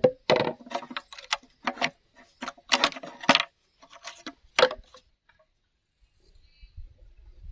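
Irregular knocks and clatter of bamboo being handled and struck, over about five seconds; a faint low rumble comes in near the end.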